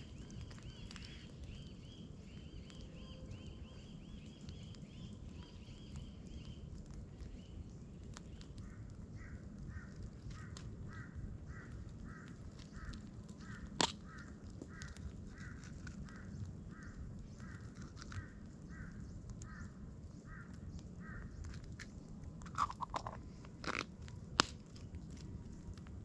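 Birds calling in a forest: a rapid high trill for the first several seconds, then a steady series of notes, about two a second, for some twelve seconds. A few sharp snaps stand out, one about halfway and three near the end, as kindling wood is broken by hand.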